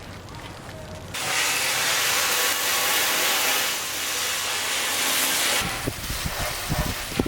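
A spray nozzle hissing loud and steady, switched on about a second in and cut off abruptly about five and a half seconds in, followed by low irregular rumbling and knocks.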